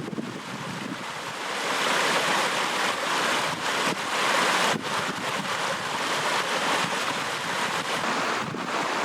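Flowing stream water rushing steadily, swelling slightly in the middle.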